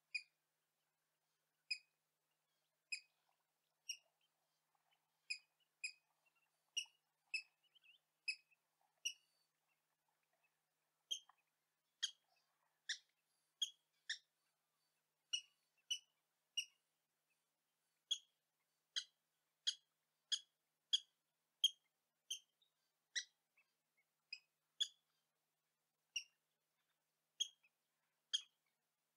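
A bird's short, sharp call notes repeated in a steady series. For the first nine seconds they come about once a second; after a brief pause near ten seconds they come quicker, about three every two seconds.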